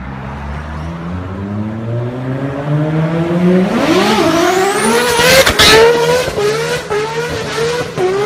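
A car accelerating hard past, its engine note climbing steadily and loudest about five and a half seconds in, then rising again several times in quick succession as it shifts up and pulls away. The car leaves tyre smoke on the road, a sign of hard wheelspin.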